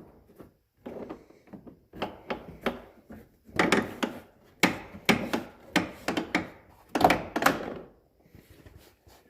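A pickup truck's door trim panel being worked off the door and handled: a string of irregular knocks and thunks with some rubbing.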